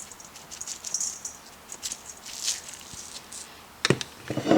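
Seasoning being shaken from a spice shaker onto chicken pieces in a bowl: a few soft, faint swishing shakes. Near the end come some sharp clicks and a brief clatter.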